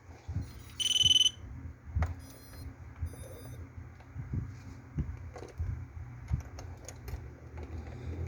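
A loud electronic beep of about half a second, about a second in, then two fainter high-pitched beep sequences, over scattered knocks and bumps of handling.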